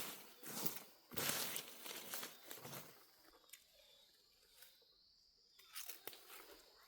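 Dry plant material being torn and crumpled: a crackling, tearing rustle for about three seconds, then quiet with a few faint clicks near the end.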